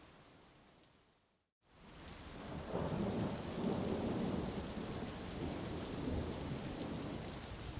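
Heavy rain with rolling thunder. The sound fades out to a moment of silence about a second and a half in, fades back in, and a long low thunder rumble builds from about three seconds in and carries on under the rain.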